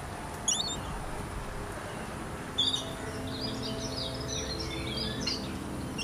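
Small birds calling: a short, sharp high chirp about half a second in, then a busy run of quick twittering chirps from about two and a half seconds to just past five.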